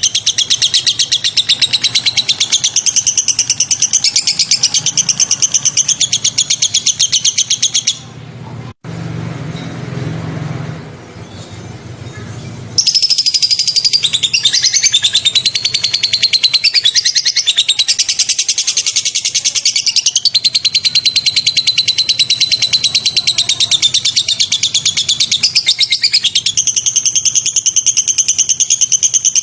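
White-rumped shama song in a tutoring recording: sharp, rapidly repeated trilled notes with no pause. About eight seconds in the song breaks off for a few seconds of quieter low noise, then the rapid trilling starts again.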